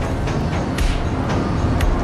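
Dramatic film score over a heavy low rumble, with a sharp percussive hit about once a second.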